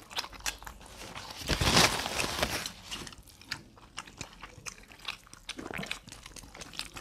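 Close-miked eating: biting and chewing barbecued chicken and hand-eaten rice, with many small wet mouth clicks and a louder noisy burst about a second and a half in that lasts about a second.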